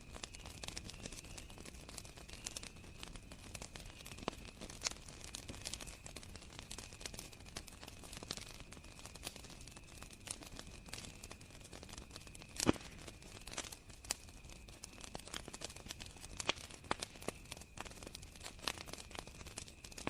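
Wood fire crackling with irregular pops, one louder pop about two-thirds of the way through, over a steady high trill of crickets.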